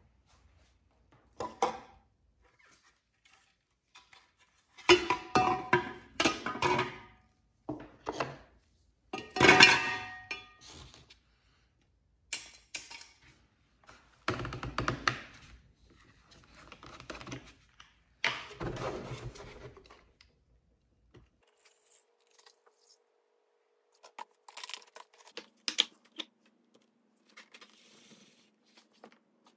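Hard plastic toy parts knocking and clinking against a glass jar as they are put in, a series of separate clatters, some with a brief ring.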